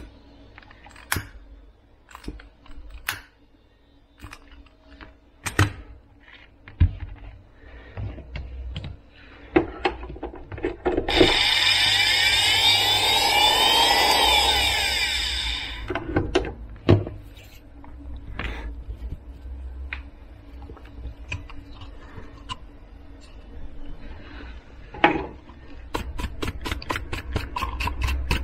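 Clicks and knocks of parts being handled, with a small electric motor running steadily for about four seconds in the middle.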